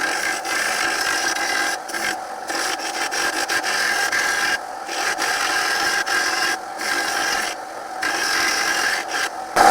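Belt sander with an 80-grit belt grinding the edge of a steel lawnmower blade flat, to take out large nicks. The motor hums steadily under a rasping grind, and the grind drops away briefly about six times as the blade is eased off the belt.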